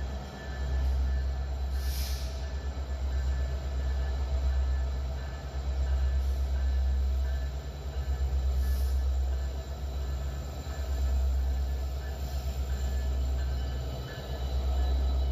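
A passing train's low rumble, swelling and fading several times, with faint thin squealing tones from the wheels on the rails.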